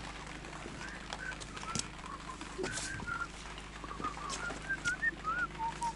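A small bird chirping: a string of short, curving whistled notes, ending in a quick run of lower, even notes. A few faint clicks from handling the wood fall among them.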